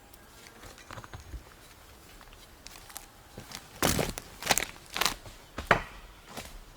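Footsteps crunching, a step roughly every half second to second, louder and more frequent in the second half.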